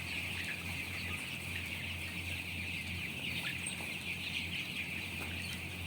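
Dense, continuous chirping of a large flock of young broiler chickens in a poultry house, over a steady low hum.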